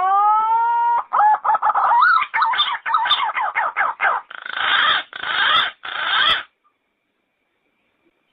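Yellow-footed green pigeon calling: a long whistle rising in pitch, then a quick run of wavering, warbling notes, ending in three rough, noisy notes.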